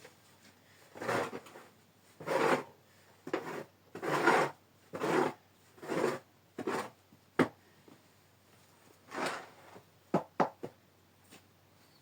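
A series of short scraping strokes, about one a second. There is a sharp knock about seven seconds in and three quick strokes near ten seconds.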